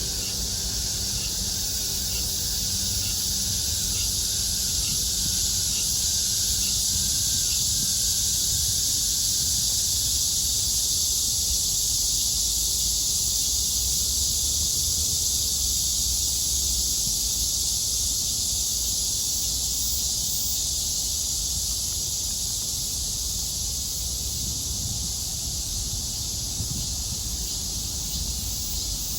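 Summer cicada chorus: a continuous, steady high-pitched drone. Under it, a low rumble dies away over roughly the first ten seconds, and faint regular chirps sound in the first part.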